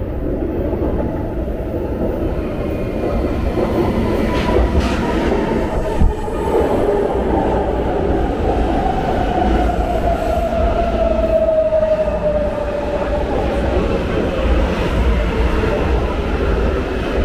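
Electric passenger train running into the platform: a steady rumble of wheels on rail, a sharp knock about six seconds in, and a motor whine that falls slowly in pitch over the following ten seconds.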